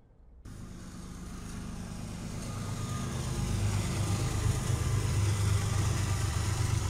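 Norfolk Southern diesel locomotive passing close by at the head of a double-stack container train. A low engine rumble and the rush of wheels on rail start abruptly about half a second in, grow louder, and then hold steady as the container cars roll past.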